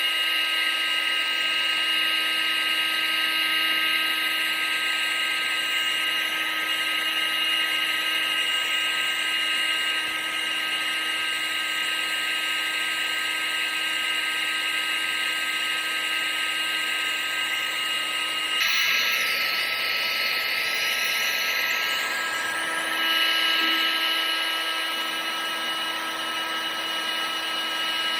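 Steady high-pitched whine of an electric blower motor over a hiss of rushing air. A little past halfway the tone shifts and some higher whistles waver for a few seconds, then it settles back.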